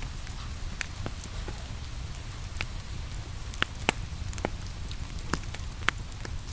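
Wood fire crackling, with irregular sharp pops over a steady hiss of rain and a low rumble.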